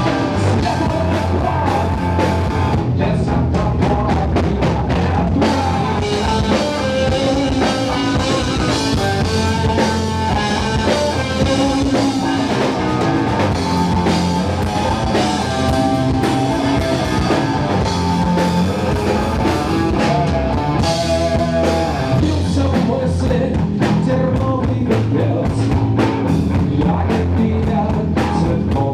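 Live rock band playing: drum kit, guitars and singing, loud and continuous.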